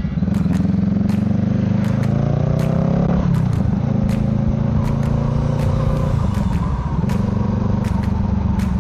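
Honda Rebel 500's parallel-twin engine under way, its revs climbing and then dropping sharply at a gear change about three seconds in, then running at a steady cruise.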